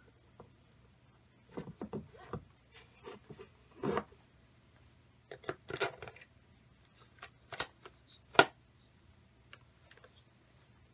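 Small engine parts being handled and fitted together by hand: scattered clicks, taps and rubs, with one sharp click about eight seconds in.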